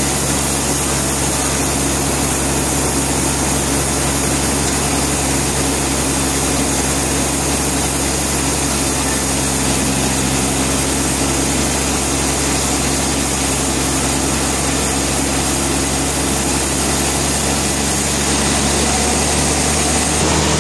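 Sawmill machinery running steadily: an engine's constant low hum under a loud, even noise that does not change.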